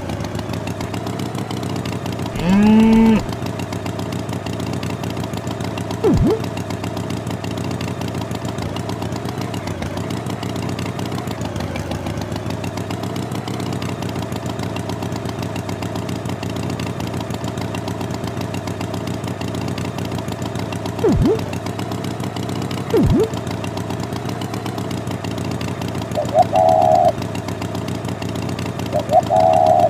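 Tractor engine running steadily at idle, a continuous drone, with a short rising call about two and a half seconds in, a few brief thumps, and two short higher-pitched toots near the end.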